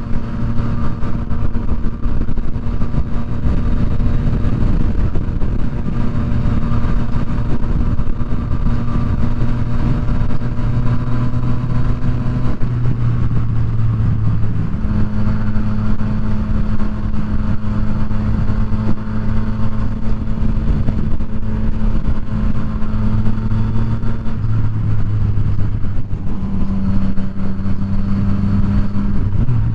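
Yamaha FZ-09's three-cylinder engine running at steady cruising speed. The engine note holds level for long stretches, dropping and then settling at a new pitch about halfway through, and shifting again near the end.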